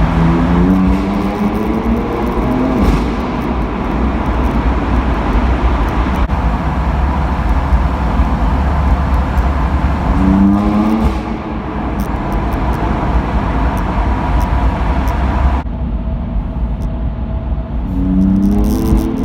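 BMW M4 F82's twin-turbo straight-six through an Akrapovic Evolution exhaust, accelerating in rising pulls at the start, about ten seconds in, and again near the end, with steady road noise between them.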